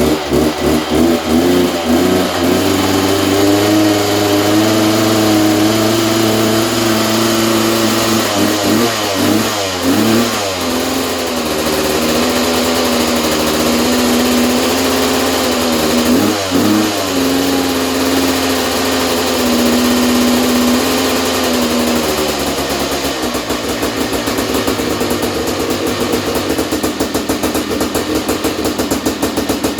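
Honda CR500's single-cylinder two-stroke engine running just after its first start following a rebuild and 14 years laid up. It holds a fast, steady speed with a couple of throttle blips, then drops to a slower, pulsing idle for the last several seconds.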